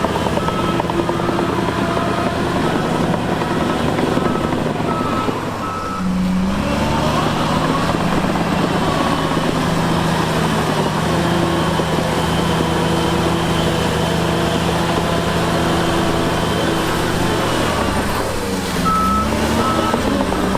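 Heavy diesel earthmoving machine running, its reversing alarm beeping at an even rhythm for the first six seconds and again near the end, as the machine backs up. In between, the alarm stops and the engine changes pitch, then holds a steady note.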